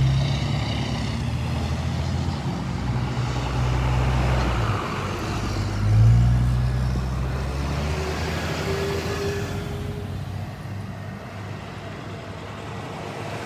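Cars and trucks driving past one after another in a slow procession: engine hum and tyre noise, with the loudest vehicles going by at the start and about six seconds in, and the traffic easing off later.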